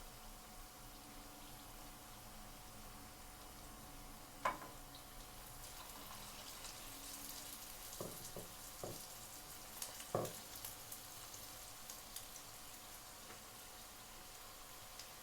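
Battered prawns frying in hot oil: a faint sizzle with fine crackling that grows busier about five seconds in. A few short sharp knocks sound over it, the loudest about four seconds in and a cluster around eight to ten seconds.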